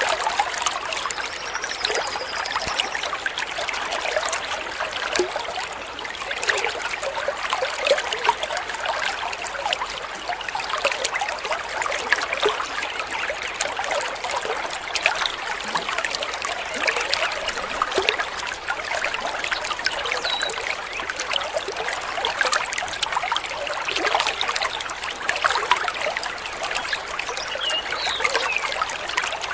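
A small stream trickling and babbling steadily over stones, with a faint bird whistle about a second in and a couple of faint chirps later.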